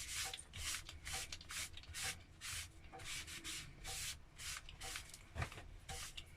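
A pen scratching on paper in quick repeated strokes, about two to three a second, as marks are drawn by hand.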